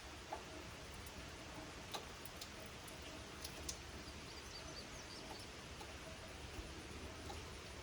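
Light summer rain falling: a faint, even hiss with scattered sharp drip ticks. A bird chirps faintly about four seconds in.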